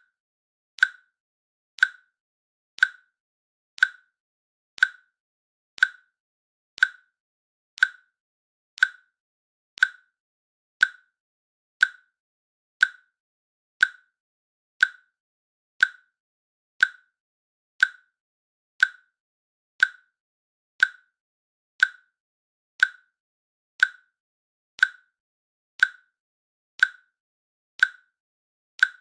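Countdown timer's click sounding once a second, short and sharp with a slight pitch, marking off each second.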